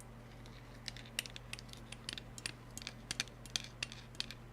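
Light, irregular clicks and taps close to the microphone, several a second, starting about a second in, over a faint steady low hum.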